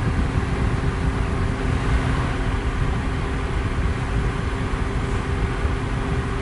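Electric fan running steadily: a constant whooshing rush of air, heaviest in the low end, with a faint steady motor hum under it.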